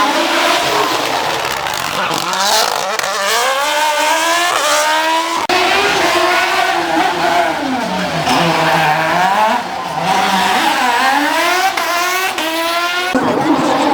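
Rally car engines revving hard, the pitch climbing in steps through the gears. About halfway through the revs drop low and then climb again through several gears, and the sound changes suddenly twice, once after about five seconds and again near the end.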